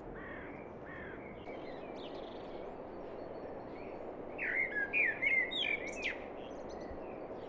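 Birds chirping over a steady outdoor hiss: scattered short calls, then a louder run of quick varied chirps and whistles from about four and a half to six seconds in.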